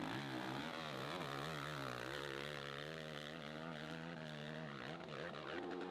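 Hill-climb motorcycle engine revving hard, its pitch wavering up and down as the throttle is worked.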